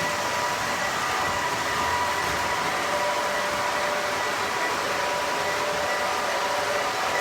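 Model trains running on a two-level ceiling-mounted track: a steady whir of wheels on rail and electric motors, with faint whining tones that come and go.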